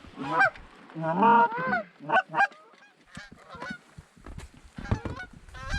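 A rapid string of goose honks and clucks, loudest in the first two and a half seconds, then fainter and more scattered: geese being worked in to land over the decoys.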